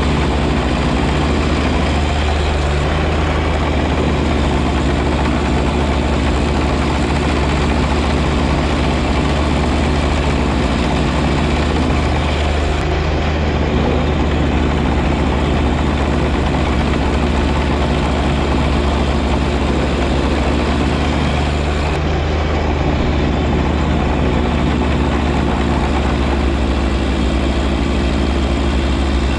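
John Deere 1025R compact tractor's three-cylinder diesel engine running steadily at working speed, along with the steady noise of its front-mounted 54-inch snow blower.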